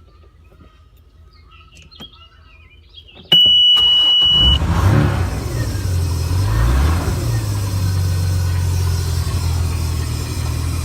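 A loud, steady high beep for about a second, then the boat's 4.3-litre carbureted MerCruiser V6 starts, revs up and down, and settles into a steady idle.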